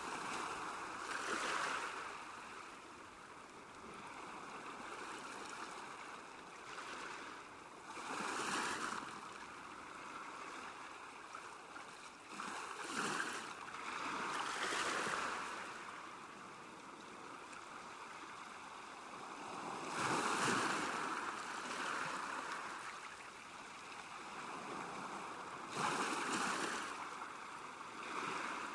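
Small waves lapping at a lake shore: a steady wash of water that swells and falls back every few seconds.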